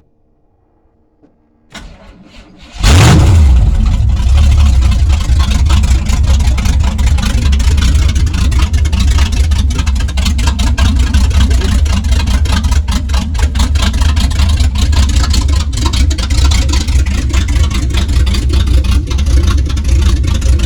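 Vehicle engine cold-started: the starter cranks briefly about two seconds in, and the engine fires right up within a second. It then keeps running loudly and steadily with a deep rumble as it begins to warm up.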